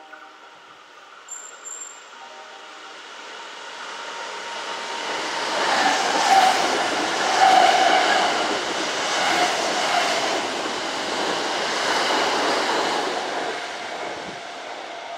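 Kintetsu electric train going by on the track, the rumble and rail noise growing to a peak in the middle and fading away near the end.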